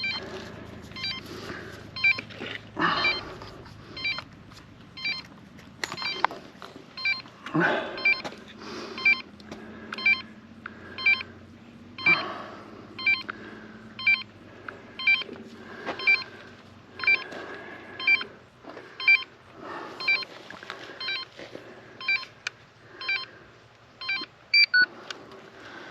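Electronic beep repeating steadily about once a second, with handling knocks and rustling between the beeps.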